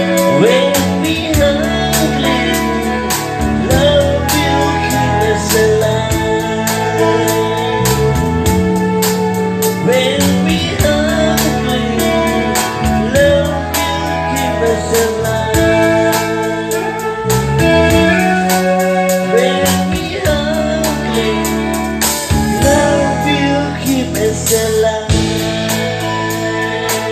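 A band playing a song, with a singer over a steady bass line and regular sharp percussive beats.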